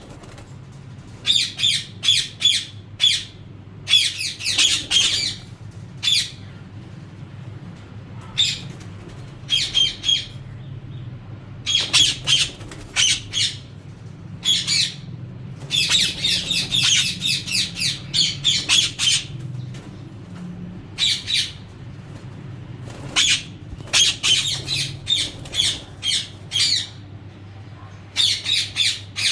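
Birds giving harsh, squawking calls in rapid clusters of short notes with pauses between, over a steady low hum.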